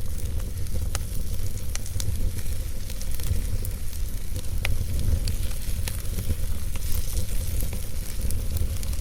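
Fireplace fire burning: a steady low rumble of flames with scattered sharp crackles and pops, the loudest pop a little before halfway.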